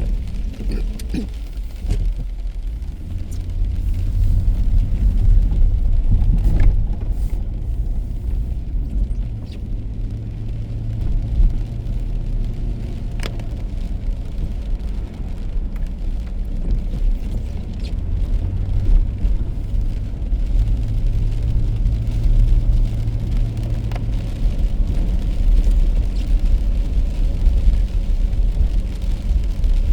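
Car driving on wet roads in the rain: a steady low rumble of engine and tyres that swells and eases a little, with a few faint sharp ticks.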